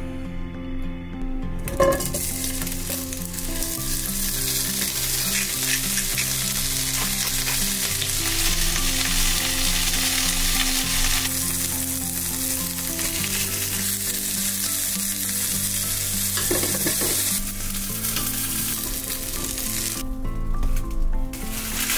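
Potato wedges, tomato slices and snow peas sizzling steadily as they fry in oil in a nonstick frying pan. The sizzle starts with a sharp knock about two seconds in and dies down a few seconds before the end.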